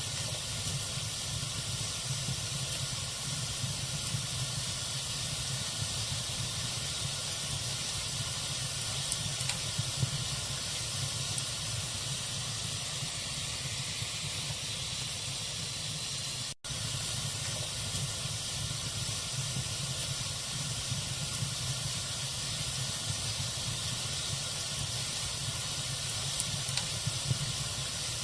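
Log fire burning in a fireplace: a steady hiss with faint scattered crackles, broken by a momentary drop-out about two-thirds of the way through.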